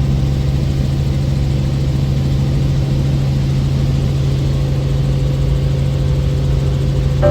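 Helicopter engine and rotor heard from inside the cabin: a steady, unchanging drone with a strong low hum.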